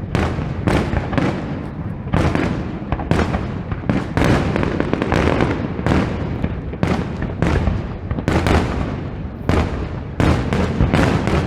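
Fireworks display: shell bursts going off in rapid, overlapping succession, about two bangs a second without a break.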